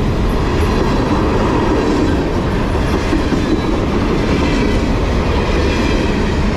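A freight train of Canadian National covered hopper cars rolling past close by: a loud, steady rumble of steel wheels on the rails that does not let up.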